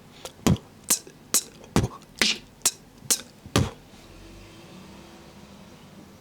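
Beatboxer performing a short pattern of about eight hits, roughly two a second: bass kick-drum sounds alternating with sharp, high inward K snares. The pattern stops a little over halfway through.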